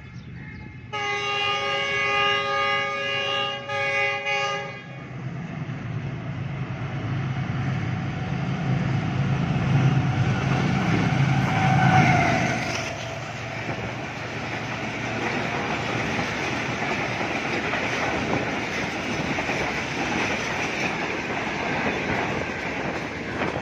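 Pakistan Railways GEU40 diesel-electric locomotive sounding its multi-note horn for about four seconds, with a short break near the end of it. The engine's low rumble then builds as the locomotive passes about twelve seconds in, followed by the steady clatter of the express coaches running by at speed.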